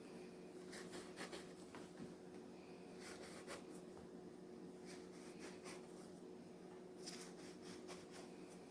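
Faint soft scrapes and light taps of biscuit dough being cut and set in a baking pan, scattered irregularly and most marked about a second in, around three seconds in, and about seven seconds in, over a steady faint hum.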